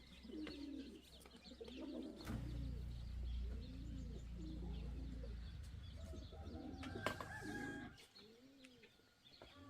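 Pigeons or doves cooing over and over in low rising-and-falling calls, with small birds chirping high above them. A low rumble sits underneath from about two seconds in until near the end, and there are a couple of sharp clicks.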